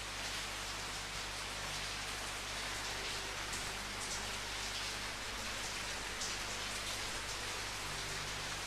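Steady rainfall: an even hiss of rain with scattered individual drops pattering on a surface.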